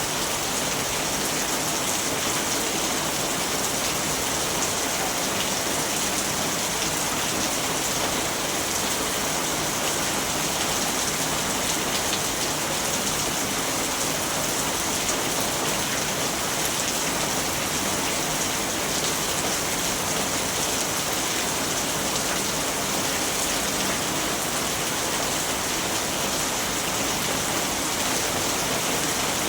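Steady rain falling, an even hiss of many fine drops with no thunder.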